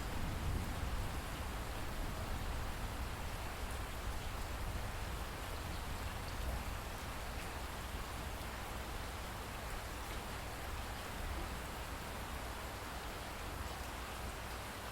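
Steady rain falling, an even hiss with a low rumble underneath and faint scattered drop ticks.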